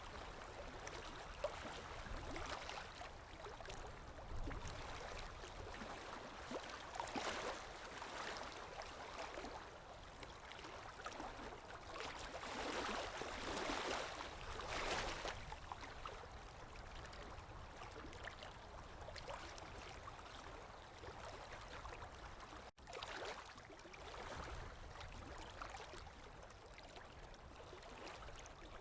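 Running water of a stream, a steady rush that swells and eases every few seconds, cutting out for an instant about three-quarters of the way through.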